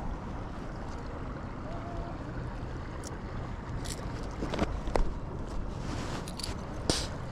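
Steady wind-and-water noise on a small fishing boat, broken by several short, sharp clicks and knocks in the second half.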